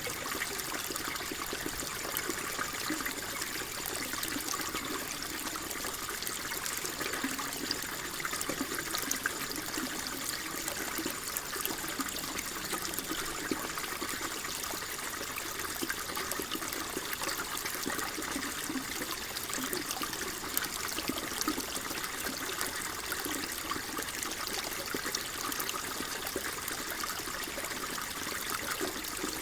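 Steady flowing water trickling and babbling, an even rush with many small splashes.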